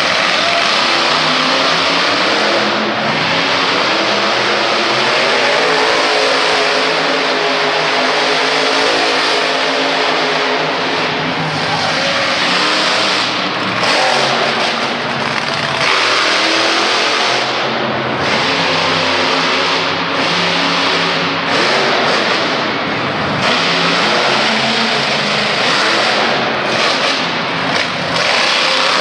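Monster truck engine running loud, revving repeatedly with its pitch climbing and dropping as the throttle is worked.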